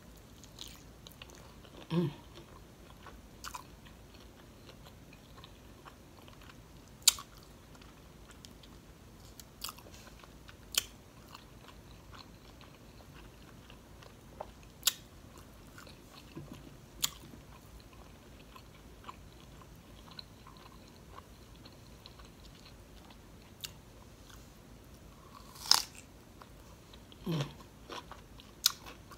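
Eating sounds close to the microphone: a mouthful of batter-fried shrimp being chewed, with scattered sharp crunches and wet mouth clicks. A few louder crunches come about two seconds in and again near the end.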